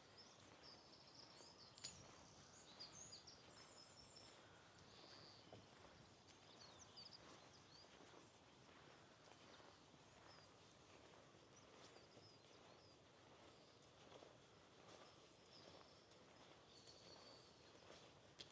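Faint birdsong: small birds giving short, high chirps and twitters, bunched in the first few seconds and again in the second half, over a soft, even background hiss.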